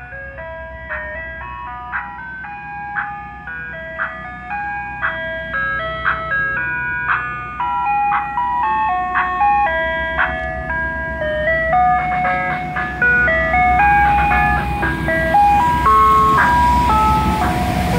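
Soft-serve ice cream truck playing its chiming jingle, one struck note at a time, over its running engine. The sound grows steadily louder, and the engine rumble and road noise come up underneath in the last few seconds.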